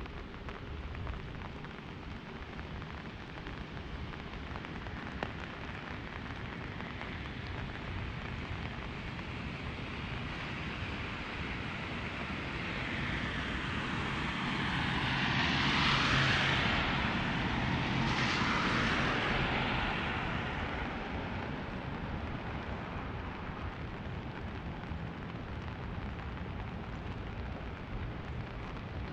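Steady patter of rain on an umbrella, with a vehicle passing on the wet street midway, its tyre hiss swelling up and fading over several seconds.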